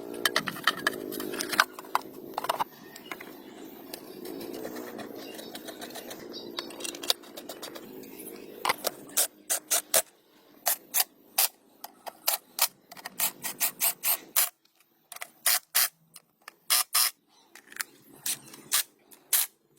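Hand tools working on metal engine parts: a run of sharp, irregular clicks and taps, coming thick and fast in the second half. A low wavering hum sits under the first half.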